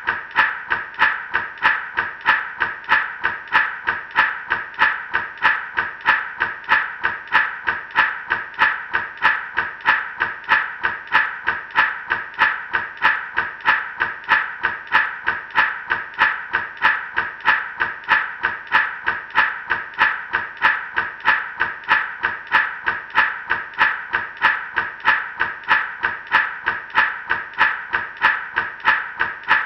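Gourd rattle shaken in a steady, even rhythm, about two to three shakes a second, the seeds inside rattling with each stroke.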